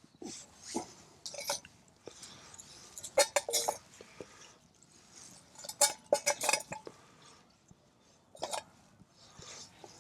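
Several short bursts of clinks and knocks as kindling is loaded into a Kelly kettle's metal fire base, the loudest about three and six seconds in.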